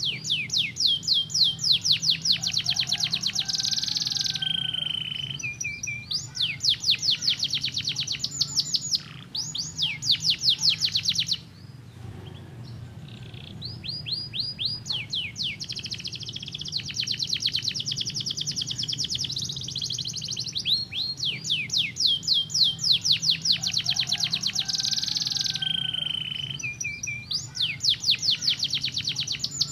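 Domestic canary singing: long, fast trills of rapidly repeated downward-sweeping notes, high-pitched. The trills change speed from phrase to phrase, with a short lull about twelve seconds in.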